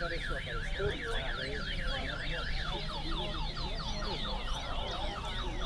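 Caged brown-plumaged seed finches singing in a timed song race. A fast warbled phrase rises and falls about four times a second, then gives way about halfway through to a run of quick downward-slurred notes, over a low murmur of the crowd.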